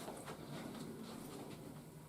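Faint handling noises, a few light taps and rustles of a plastic toy jet being moved, over low room tone.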